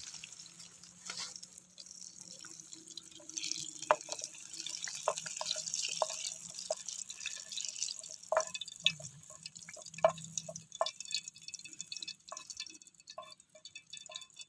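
Food frying in hot oil in a wok, the oil popping and crackling in sparse, irregular pops, about one or two a second, over a faint steady low hum.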